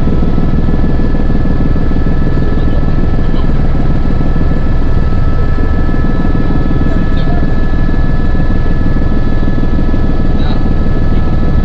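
Helicopter in flight: a loud, steady drone of rotor and engine with a fast, even low chop and a thin steady whine above it.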